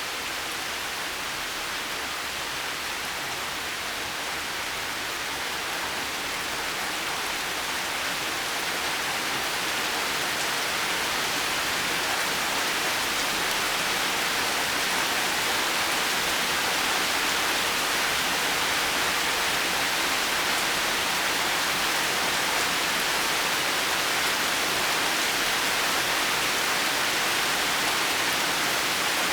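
Steady heavy rain, an even hiss with no single drops standing out, growing a little louder about ten seconds in.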